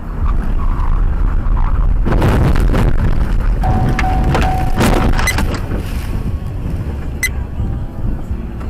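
Heavy rumble of a moving car with a run of loud, clattering impacts from about two to five seconds in, typical of a collision. A single steady tone sounds for about a second and a half in the middle, and there is a sharp click near the end.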